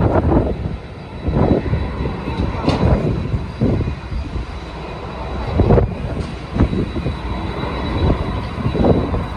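Heavy wind buffeting the microphone in irregular gusts, over the steady whine of jet aircraft engines at the airport.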